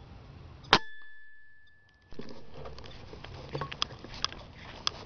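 A single air-rifle shot about a second in: one sharp crack with a thin ringing tone that fades over about a second. After that, field ambience returns with small ticks.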